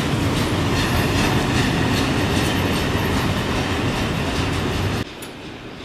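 Freight train of loaded log wagons rolling past close by, with a steady rumble and the clatter of wheels over the rail joints. The sound cuts off suddenly about five seconds in, leaving a quieter background.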